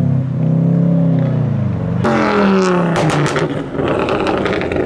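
Car engines revving as cars drive past, the engine pitch rising and then falling away, with a quick run of sharp pops about three seconds in.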